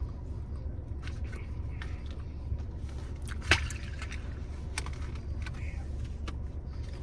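Eating sounds inside a car: chewing, with small clicks and rustles of handling pizza, over a steady low hum, and one sharper click about three and a half seconds in.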